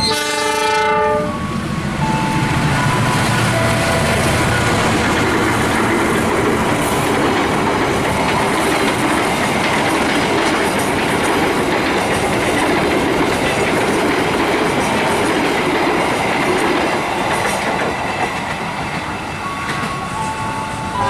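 Passing train: a steady loud rush of wheels on rail that eases off near the end. It is preceded in the first second or so by a short burst of several pitched tones.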